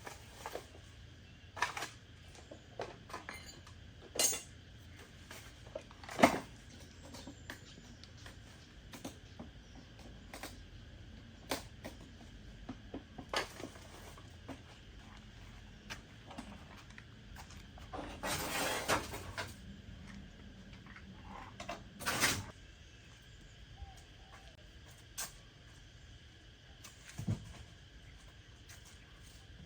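Intermittent metallic clinks and knocks of hand tools and parts being handled during repair work, with a brief noisy burst about two-thirds of the way through.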